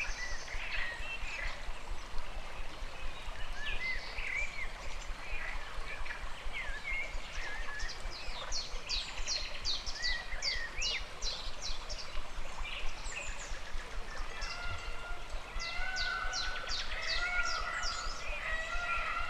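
Running stream water under a chorus of birds calling. Quick, high, downward-sweeping notes come in fast series about a third of the way in and again near the end, among scattered chirps, and in the last few seconds a steady-pitched call repeats several times.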